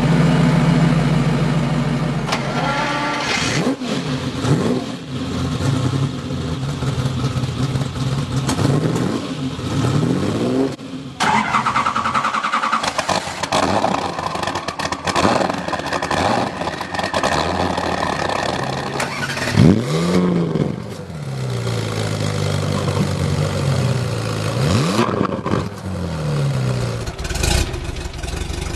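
High-performance car engines revving hard and accelerating, the pitch climbing and dropping repeatedly through gear changes, with sharp rev blips.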